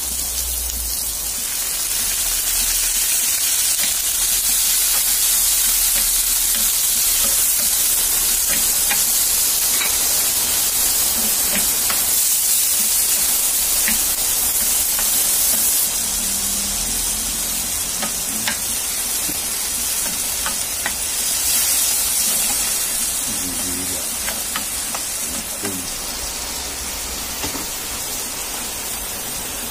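Pork, onions and garlic sizzling steadily in a non-stick frying pan, stirred with a wooden spatula that scrapes and taps the pan now and then.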